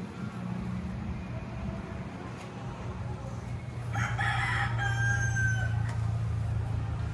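A rooster crowing about halfway through, over a steady low hum.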